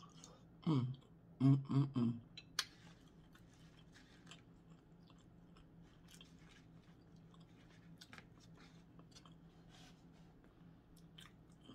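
A person chewing and smacking her lips while eating a seafood boil, with a few short hums about a second in, then a long run of small, quiet wet mouth clicks.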